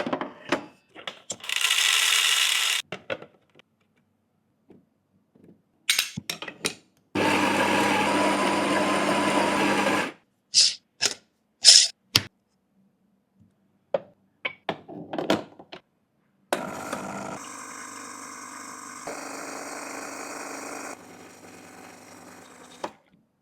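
Espresso-making sounds: a short hiss, a motor running steadily for about three seconds, a scatter of clicks and knocks, then the espresso machine running steadily for about six seconds, dropping in level twice.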